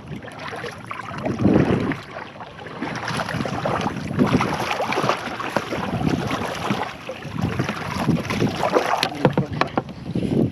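Irregular splashing, sloshing and knocking on a fishing kayak, with wind buffeting the microphone and scattered clicks and rustles of gear being handled.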